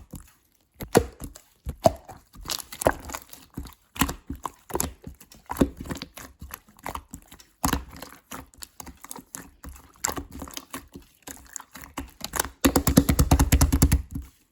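Clear slime being squeezed and pressed in the hands, giving a string of wet clicks and pops. Near the end comes a fast, tightly packed run of clicks lasting about a second and a half.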